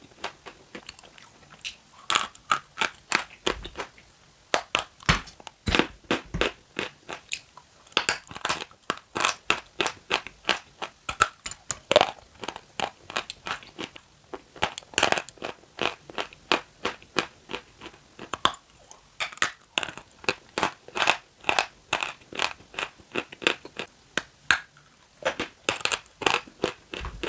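Close-up crunching and chewing of eating chalk: crisp crunches, several a second, with a few short pauses.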